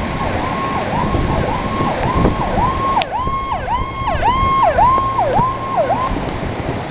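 Electronic siren sounding in quick repeated falling sweeps, about two a second, with a second siren joining about halfway through. Underneath is a steady rushing noise.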